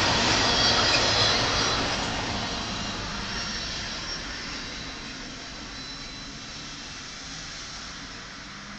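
BNSF double-stack container train's well cars rolling past on the rails, the wheel-and-rail noise fading steadily as the end of the train goes by and moves away. A faint high wheel squeal is heard in the first few seconds.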